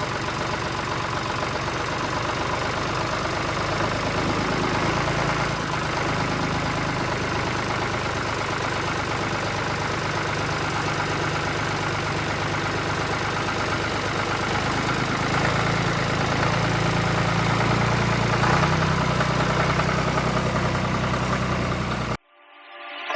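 A vehicle engine running steadily at idle with a low, even rumble. It cuts off suddenly near the end.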